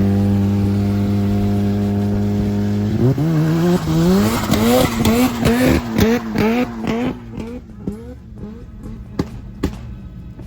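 Rotary engine of a rotary-swapped Subaru BRZ held at steady high revs, then revved up and down in quick repeated blips before dropping off, with a few sharp exhaust pops near the end.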